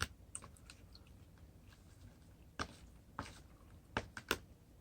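Person quietly chewing a mouthful of salad, with a few short crisp clicks or crunches spread through it, the sharpest near the end.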